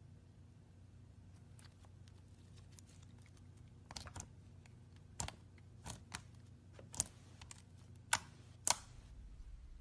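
A series of sharp clicks and taps, about eight of them at irregular intervals, starting about four seconds in, over a faint low hum.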